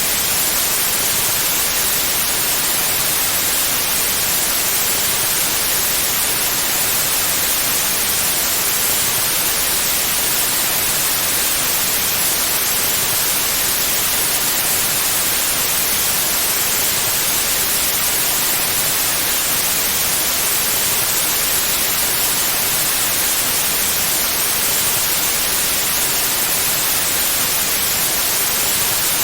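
Steady, unchanging white noise: an even hiss, brightest in the high end, with no tones or breaks.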